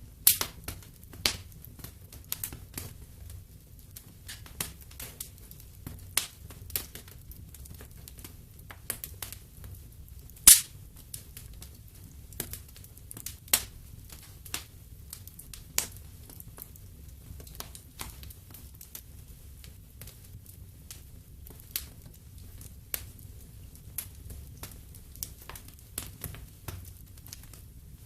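Wood fire in a fireplace crackling: irregular sharp pops and snaps over a low steady rumble, with one loud pop about ten seconds in.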